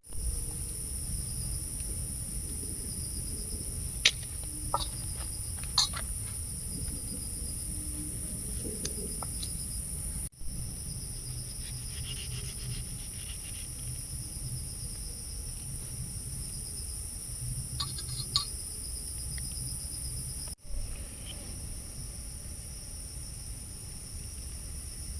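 Steady high-pitched shrill of forest insects, with a low rumble underneath and a few sharp clicks around 4, 6 and 18 seconds in. The sound briefly cuts out twice, at about 10 and 20 seconds.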